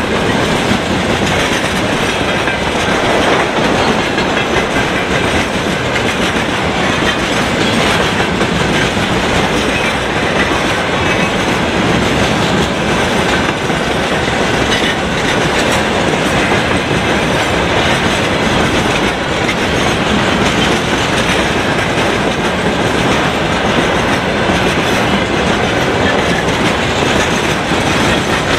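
Railway tank cars of a freight train rolling past, a steady, loud sound of steel wheels running on the rails.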